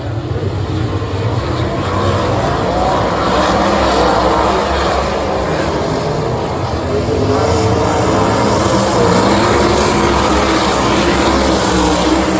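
Sprint car engines at full throttle on a dirt oval, their pitch rising and falling as they lap, getting louder over the first two seconds.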